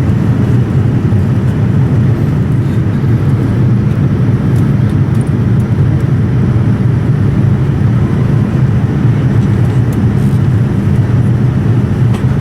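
Steady cabin noise inside a Boeing 787-9 airliner: an even, low rush of air and engine noise with no change in level.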